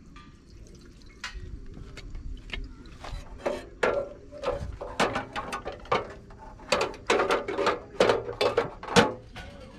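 A quick, irregular run of clicks and clattering knocks, as of hard objects being handled, starting about three seconds in.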